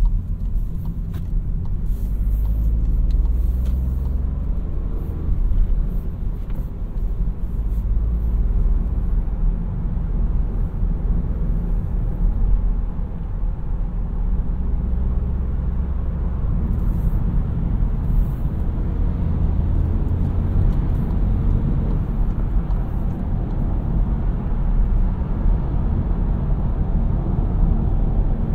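Seat Arona's 1.0 TSI turbocharged three-cylinder petrol engine and tyre rumble heard from inside the car while driving, a steady low drone. The engine note shifts in pitch during the first few seconds, then the sound settles into an even rumble.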